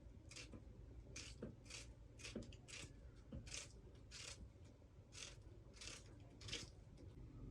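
A quiet series of short scraping strokes, about one to two a second and unevenly spaced, over a low steady hum.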